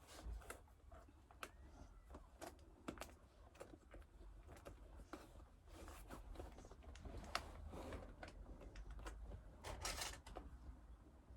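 Faint, irregular clicks and taps of hands handling a boxed gimbal's cardboard and plastic packaging, with a few sharper knocks.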